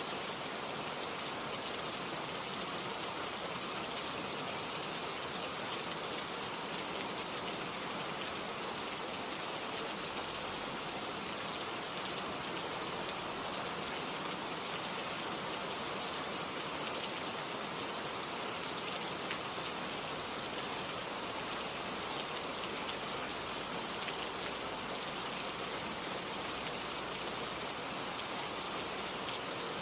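Gentle rain falling steadily, an even hiss of drops with faint scattered patters on surfaces.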